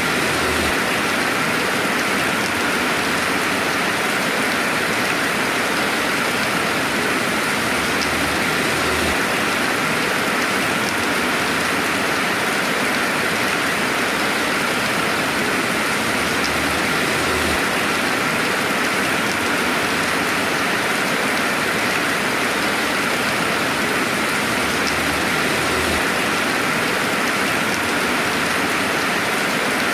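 Steady, dense rainfall: an even hiss of rain with no thunder, with a faint low rumble coming and going underneath.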